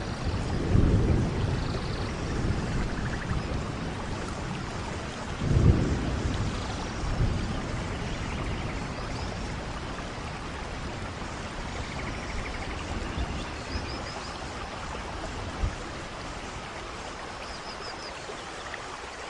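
Steady rain with low rumbles of distant thunder, the loudest about five and a half seconds in, easing off toward the end.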